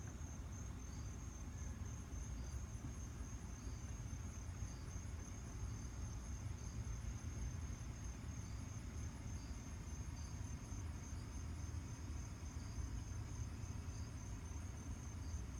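Crickets trilling steadily in one high, even pitch, with short chirps repeating about once a second from another insect, over a low steady rumble.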